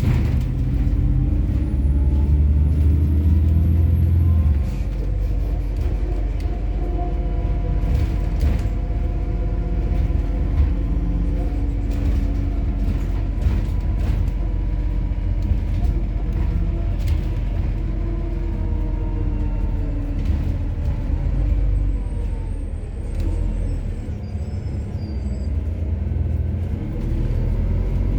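MAZ-103 city bus with a methane (compressed natural gas) engine, heard on board while under way: the engine runs with heavy low rumble, its pitch rising and falling as the bus pulls away and changes speed, with light rattles and clicks. It eases off for a couple of seconds past the 20-second mark, then picks up again near the end.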